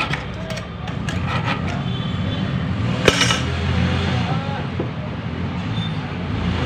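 A blade scraping rust and old grease off the steel shaft of a washing machine drum in a few short strokes, with a sharp metallic clink about three seconds in and a lighter one a couple of seconds later, over a steady low hum.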